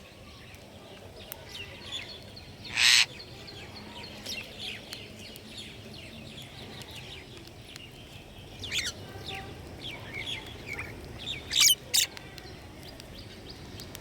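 Wild songbirds chirping, many short calls overlapping, with three much louder short bursts: one about three seconds in and two close together near the end.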